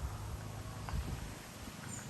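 Soft footsteps: four dull, low thumps over two seconds.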